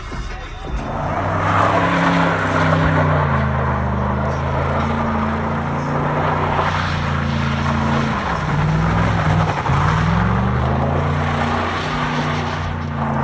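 A vehicle engine running hard under revs, its pitch holding, dropping about eight seconds in, then climbing again, over a loud steady hiss.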